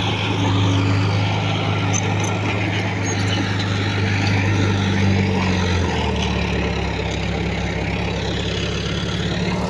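Heavy diesel engine of earthmoving machinery running steadily; its note drops a little about six seconds in.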